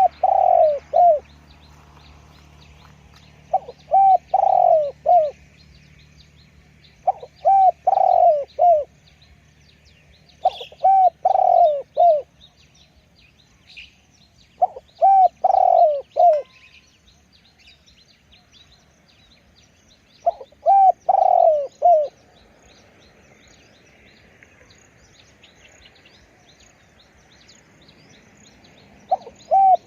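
Spotted dove cooing loudly: seven phrases of several deep coos each, repeated every few seconds with a longer pause near the end. Faint high chirping of small birds can be heard behind it.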